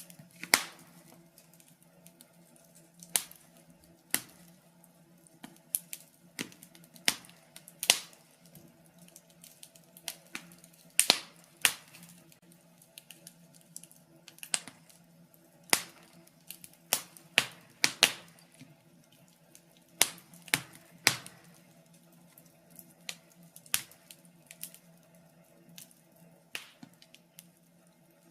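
Wood fire crackling, with irregular sharp pops and snaps of differing loudness, a few of them loud, over a faint steady hum.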